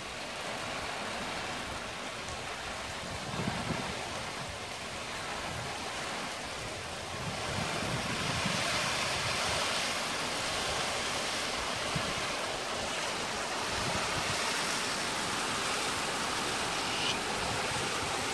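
Heavy downpour of thunderstorm rain: a steady, dense hiss that grows heavier about seven seconds in.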